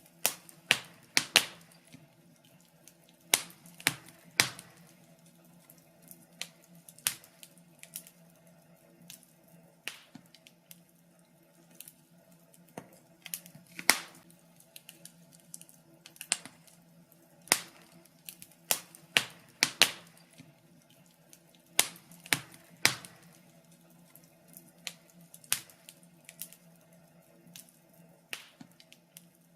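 Wood fire crackling, with irregular sharp pops and snaps, some louder than others, over a faint steady low hum.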